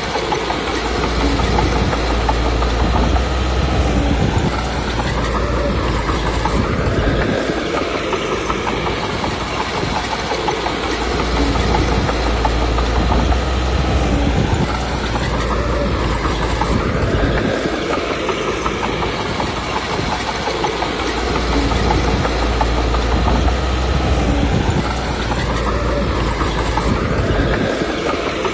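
Komatsu D21P bulldozer working: diesel engine and clanking steel tracks. The engine loads up and eases off in repeated pushes about every five seconds, each with a rising and falling whine.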